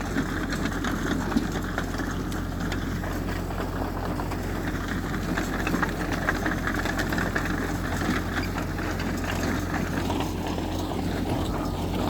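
Heavy diesel engine of earthmoving machinery running steadily, with a light clatter over it.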